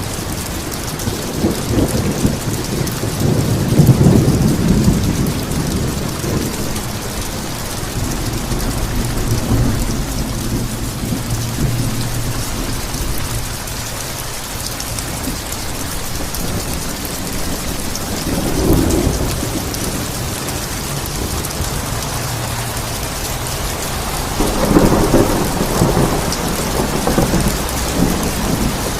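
Steady rain falling, with rolls of thunder rumbling through it: a long roll about four seconds in, a shorter one about two-thirds of the way through, and another near the end.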